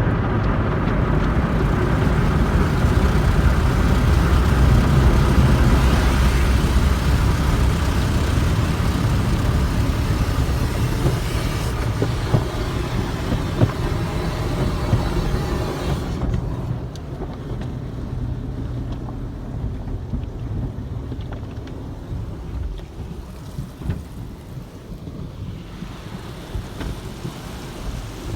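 Automatic tunnel car wash equipment running, with a loud hiss of water spray over machinery rumble. About sixteen seconds in, the high spray hiss drops away, leaving a quieter low rumble.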